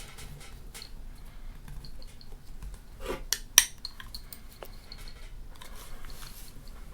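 Small clicks and taps of camera mount brackets and adapter parts being handled. A short rattle about three seconds in is followed by one sharp clink as hard pieces knock together.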